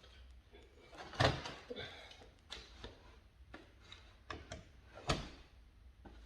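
Handling noises of wood and tools: a string of knocks and clicks, with two louder thumps about a second in and about five seconds in.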